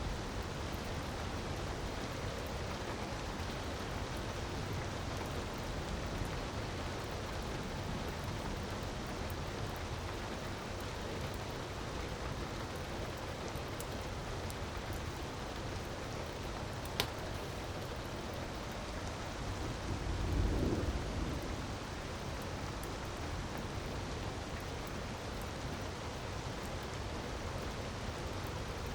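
Steady rushing of a waterfall under a crackling fireplace fire, with one sharp pop about seventeen seconds in and a brief low rumble a few seconds later.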